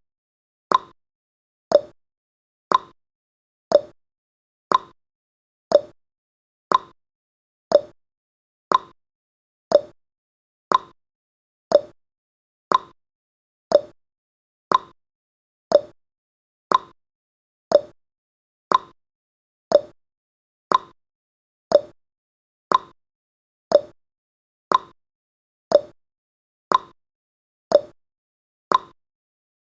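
Countdown timer's ticking sound effect: one short, sharp tick each second, evenly spaced and quickly fading.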